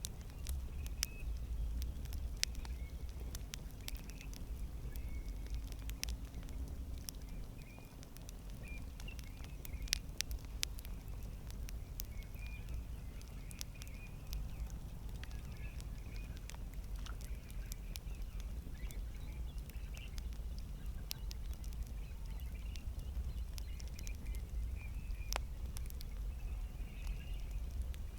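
Campfire burning, with irregular sharp crackles and pops over a low steady rumble, and faint high chirps now and then.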